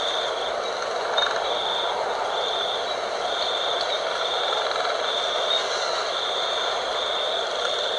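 Wind blowing steadily, with a high-pitched call pulsing on and off a little more than once a second above it.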